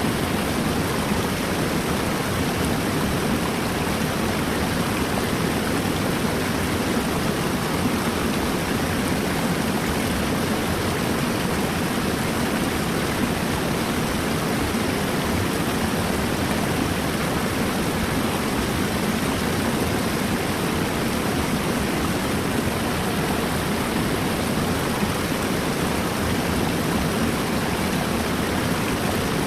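Steady rushing of flowing river water, even and unbroken, fullest in its lower range.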